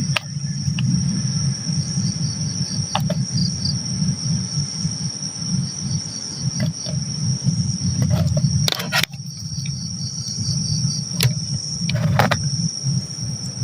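Crickets trilling steadily in a high, continuous drone at night. Under them runs a louder low rumble. A few short knocks come about 3, 6.5, 9, 11 and 12 seconds in.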